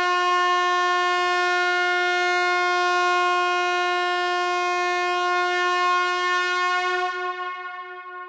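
A horn sounding one long blast on a single steady pitch, held for about seven seconds, then dying away near the end.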